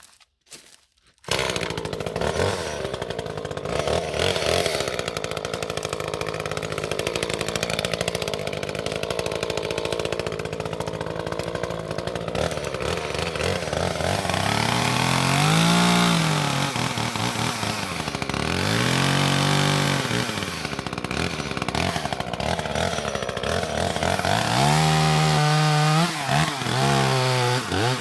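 Two-stroke chainsaw running, revved up and back down several times from about halfway through.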